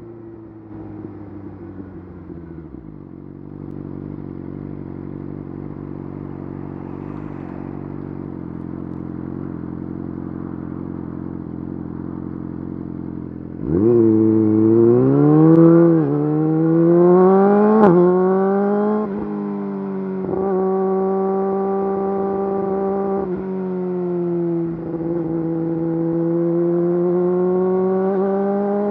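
Yamaha YZF-R6 inline-four through an Akrapovič full exhaust, ridden. The revs fall off and the engine runs steadily at lower revs. About halfway through the throttle opens hard and the revs climb, with quick upshifts dropping the pitch twice. It then cruises steadily, eases off briefly near the end and pulls again slowly.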